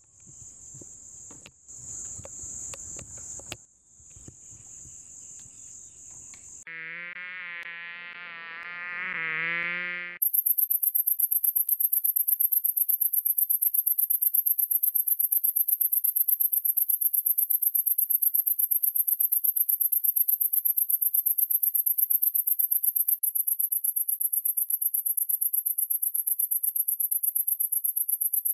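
A series of insect recordings. First a steady high insect chorus. Then, from about 7 to 10 seconds in, a flying insect's wing buzz that wavers in pitch. From about 10 seconds in, a loud, very fast, high-pitched cricket trill, which drops slightly in pitch about 23 seconds in.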